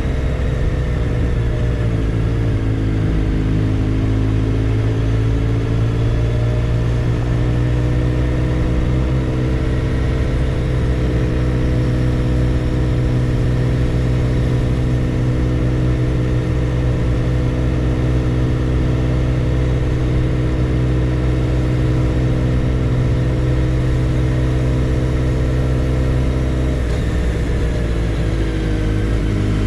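Motorcycle engine running steadily at cruising speed, its pitch dipping and then rising again a couple of seconds in and once more near the end as the engine speed changes.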